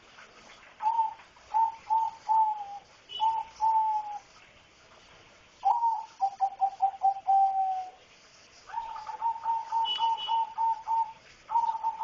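A bird calling in several bouts of short, clear notes at one pitch, repeated in quick series with pauses between bouts.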